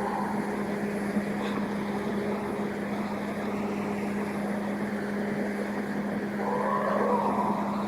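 Steady hiss with a constant low hum, the noise floor of a noisy field recording, with a faint wavering call rising out of it near the end.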